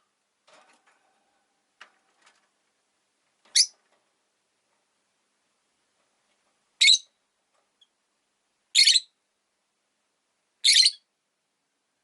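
Rosy-faced lovebird giving four short, shrill calls a couple of seconds apart, with a few faint ticks and chirps between them.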